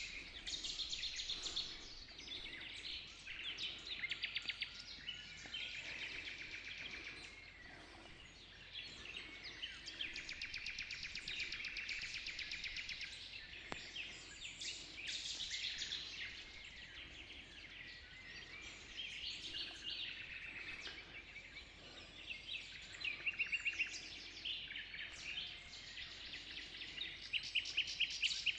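Several songbirds singing at once in a dawn chorus: overlapping high chirps, whistles and fast trills of rapidly repeated notes, continuous and overlapping.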